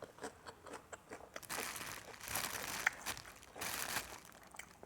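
Close-miked eating: crunching bites and chewing, with crinkling rustles in several short bursts.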